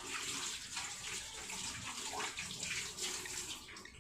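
Water running and splashing, as from a tap, a steady rushing that eases off near the end.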